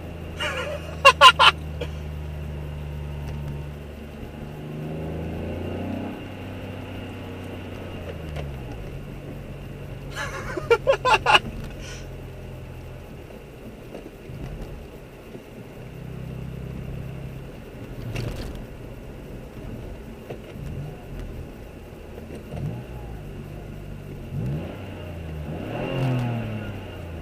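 Straight-piped V6 exhaust of a Mazda 6s (stock resonators and cats kept) running and being revved, the engine note rising and falling several times. Two brief clusters of sharp, loud sounds come about a second in and about eleven seconds in.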